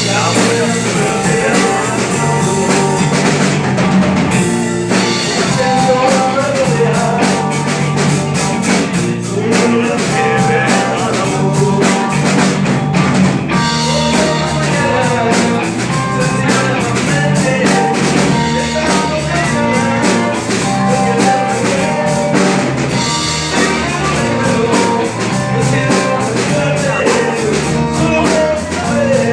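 Live rhythm-and-blues band playing a steady groove on drum kit and guitar, with a harmonica carrying the lead line.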